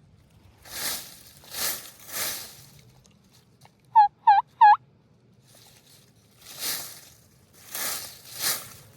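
Three quick, loud hen-turkey yelps from a turkey call, a little over 4 s in. Before and after them come two sets of three rustling rakes through dry leaves, like a turkey scratching.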